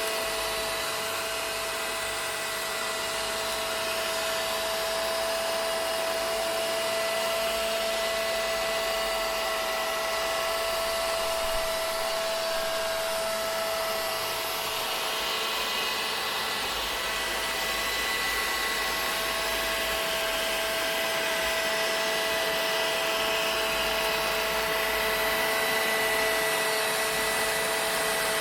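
Vacuum cleaner running steadily: a continuous motor hiss with a high, steady whine.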